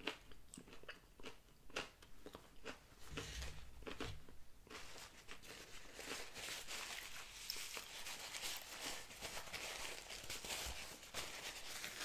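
Close-up chewing of a crispy fried Popeyes spicy chicken sandwich, with sharp crunchy clicks. From about five seconds in, a paper napkin rustles and crinkles steadily as fingers and mouth are wiped.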